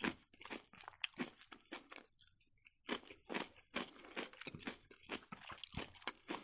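Close-miked chewing of a mouthful of soft Ossetian cheese pie: a run of short, quick wet mouth clicks, pausing a little after two seconds in, then going on.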